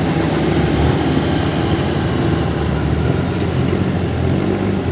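A heavy diesel engine running steadily at low revs.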